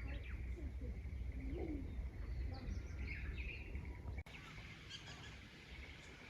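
Chorus of rice-paddy frogs calling together: a steady high trill with many short chirps and croaks over a low rumble. The sound drops out suddenly about four seconds in and is quieter after.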